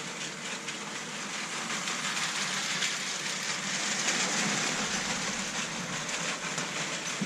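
Motorised Lego City cargo train (Power Functions) running on plastic track: a steady whirring rattle of its motor and wheels, a little louder in the middle.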